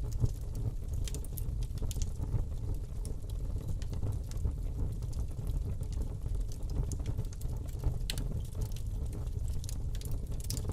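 Fire burning in a fireplace: steady crackling with scattered sharp pops over a low rumble of flame.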